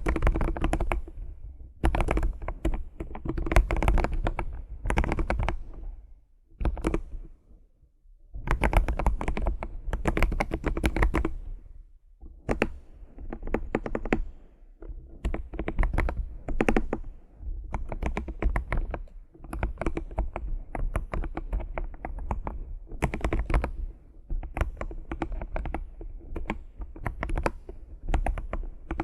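Fast typing on a computer keyboard, dense runs of key clicks in bursts of a second or two with short pauses between, and a longer pause about six to eight seconds in.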